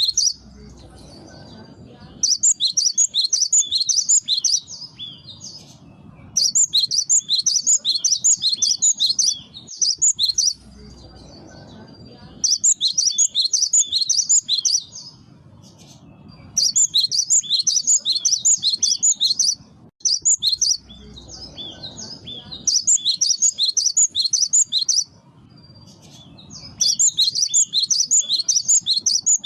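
Gelatik batu (cinereous tit) singing: repeated phrases of rapid, high, sharp notes, each phrase about three seconds long, separated by short pauses filled with a faint low rumble.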